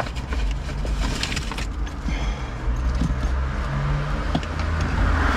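Small items being handled and packed, with light knocks, clicks and rustling, over a steady low rumble.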